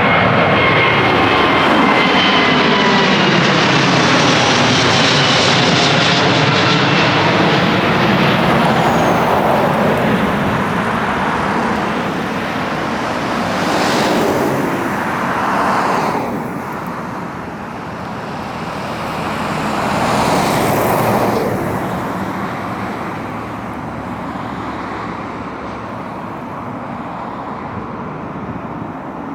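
Jet airliner climbing out overhead after takeoff: loud engine noise with a whine that falls in pitch as it passes, fading after about ten seconds. Two brief passing swells of road traffic follow.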